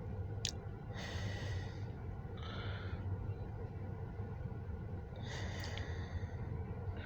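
A person breathing close to the microphone, four short breaths in and out, over a steady low hum, with one sharp click just after the start.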